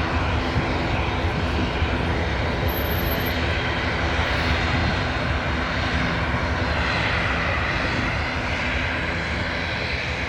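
Airliner engines running loud and steady, easing off slightly near the end.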